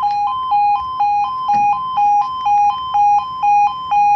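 Level crossing warning alarm sounding a loud two-tone warble, a low and a high note alternating about twice a second, the signal that a train is approaching and the barriers are coming down.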